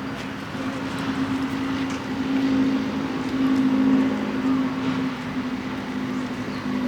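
A steady motor or engine hum that swells to its loudest a little past the middle and then eases back.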